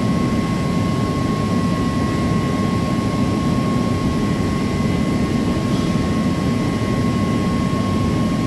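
Steady, loud machinery drone with a constant high whine, unchanging throughout.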